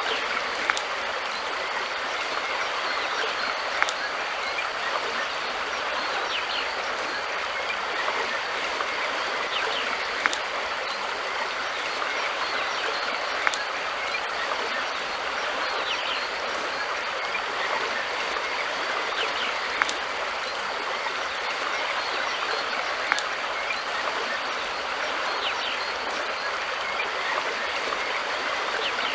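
River water flowing steadily over a shallow stretch, an even rushing hiss with a sharp tick every few seconds.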